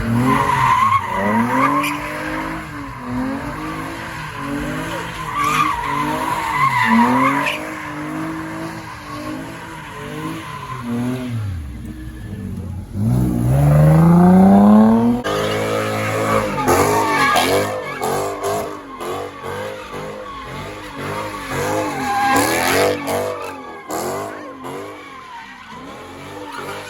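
A car engine revved hard over and over, its pitch rising and falling, with one long climbing rev about halfway through and quick rev rises and drops after it, along with tire screeching.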